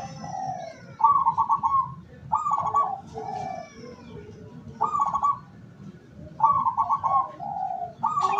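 Zebra dove (perkutut) cooing: about five loud phrases of rapid staccato notes, with softer, lower coos between them. Faint high chirps from other small birds are in the background.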